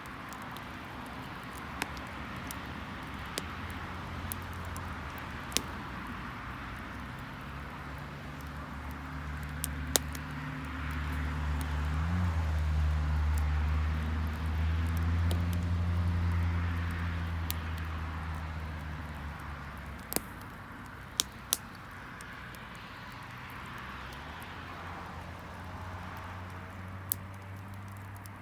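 Wood fire crackling, with sharp pops every second or two over a steady hiss. A low vehicle engine hum swells in the middle and then fades away.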